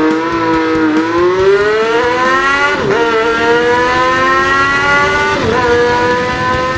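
Engine sound effect accelerating hard: the pitch climbs steadily and drops sharply twice, about three and five and a half seconds in, like gear changes, then climbs again.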